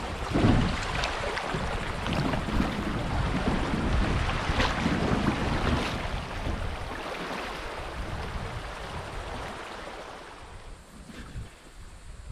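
River water rushing and splashing around a drifting boat, with a few sharper splashes in the first half, easing off over the last few seconds.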